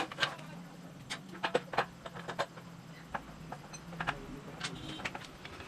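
Irregular sharp clicks and knocks, like hand tools and metal parts being handled during reassembly of a scooter engine, over a low steady hum.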